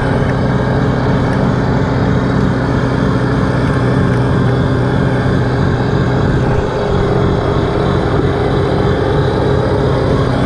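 Diesel tractor with a front-mounted snowblower, its engine running steadily and loud.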